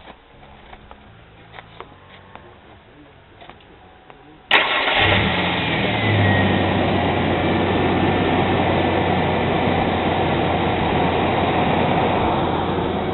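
Ford Ranger pickup engine being started: a few faint clicks, then about four and a half seconds in it catches with a sudden loud burst and settles into a steady idle.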